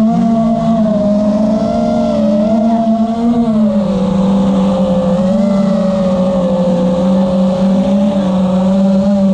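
5-inch FPV quadcopter's brushless motors and tri-blade propellers humming steadily in flight. The pitch wavers slightly and drops a little about three and a half seconds in.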